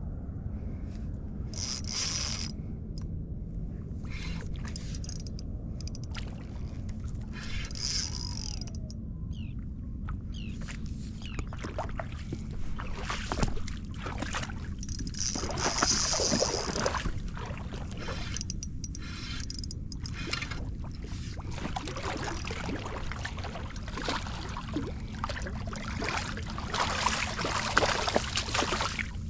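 Water sloshing and splashing in irregular bursts over a steady low rumble, with scattered small clicks and knocks.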